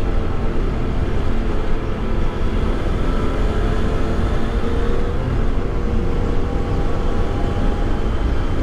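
Motorcycle engine running steadily while riding, under a dense low rumble of wind and road noise; the engine note dips slightly in pitch about halfway through.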